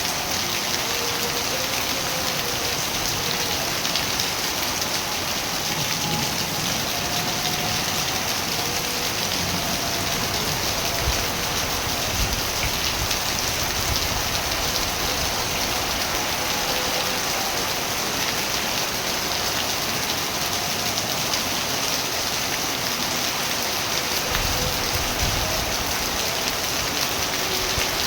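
Steady rain falling, an even, unbroken hiss. Faint low rumbles swell briefly about halfway through and again near the end.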